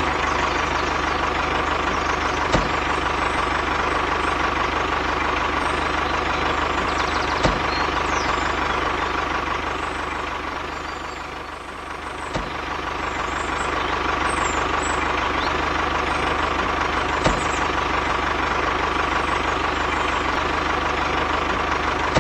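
An engine running steadily at a constant speed, like a small tractor engine at idle. It fades a little about halfway through and comes back up, with a faint click about every five seconds.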